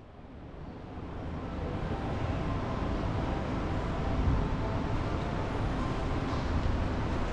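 Steady low rumble of a vehicle, swelling over the first two seconds and then holding steady.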